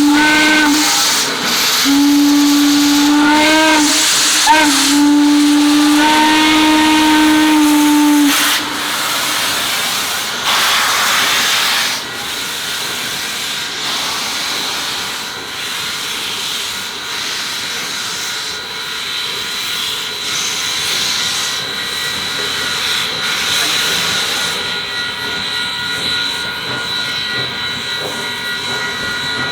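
Steam locomotive whistle blowing three blasts, the first already sounding at the start and ending about a second in, the last two each a couple of seconds long. From about eight seconds on, a steady hiss of escaping steam with the train running.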